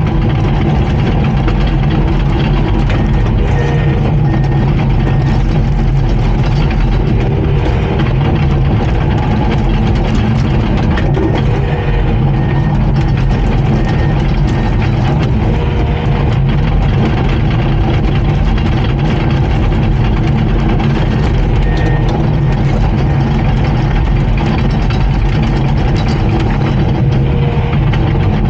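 Komatsu D39PX bulldozer's diesel engine running steadily, with no revving up or down.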